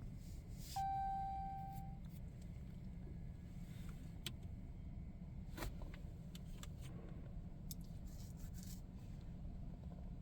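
A single electronic beep, one steady tone about a second long, over a steady low rumble in the truck cab; a few light clicks follow later.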